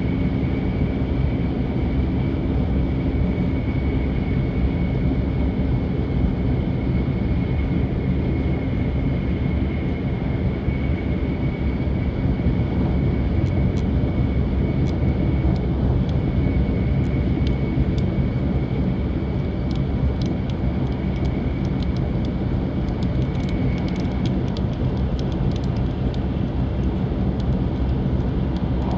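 Steady running noise of a Kyushu Shinkansen 800 series train at speed, heard inside the passenger cabin: a dense, even rumble with a faint high steady whine above it. Scattered light ticks come in during the second half.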